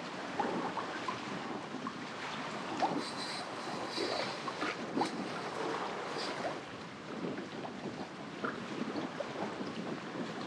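Water splashing and lapping, with wind buffeting the microphone.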